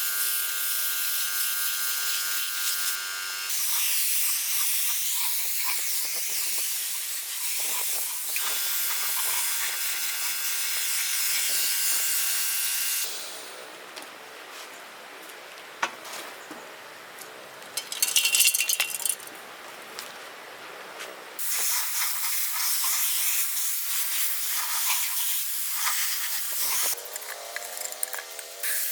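Steady hiss of a pressurised spray, with a machine's whine under it at first, in several cut segments. A quieter stretch comes in the middle, broken by a short loud burst.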